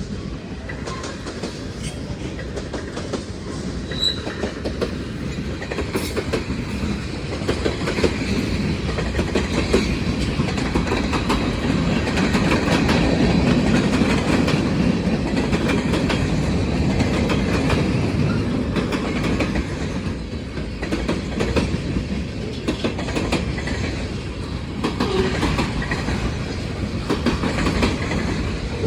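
Norfolk Southern freight cars rolling past, their wheels clicking over rail joints in a steady clickety-clack. The rumble grows louder toward the middle and eases again.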